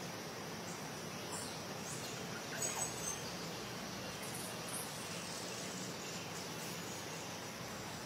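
Steady outdoor background hiss with a few faint, brief bird chirps, a small cluster of them about two and a half to three seconds in.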